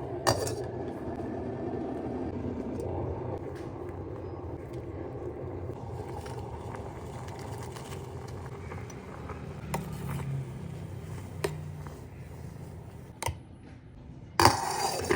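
Electric kettle heating water with a steady low rumble, broken by a few sharp clicks and a short, loud scraping noise near the end.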